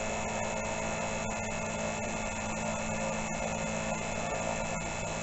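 Milling machine running steadily through a cut, giving an even motor hum with a few fixed tones over a light hiss.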